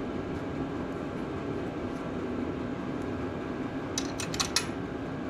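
A steady fan-like hum, with a quick run of about five sharp metallic clicks about four seconds in, typical of hand tools such as a socket wrench clinking against metal.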